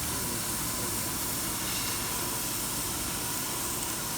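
Steady hiss with a low rumble underneath from a fiber laser cutting machine running.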